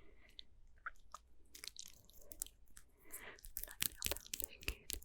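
Close-miked ASMR mouth sounds: a run of sharp mouth clicks and smacks, sparse at first and coming thick and fast in the second half, with soft breathy noise between them.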